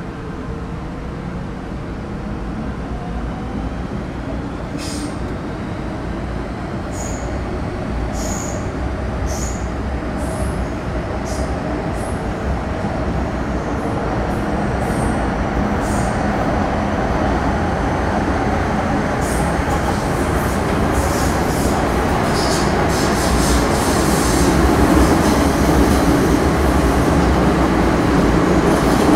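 Onboard running sound of an MTR Metro Cammell M-Train, a GEC GTO-chopper electric multiple unit: a steady rumble that grows gradually louder, with brief high wheel squeals and clicks in the first half.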